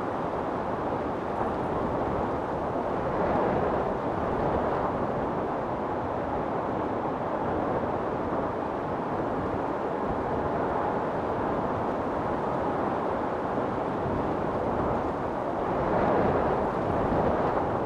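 Storm wind blowing steadily in a deep, even rush, swelling into stronger gusts about three seconds in and again near the end.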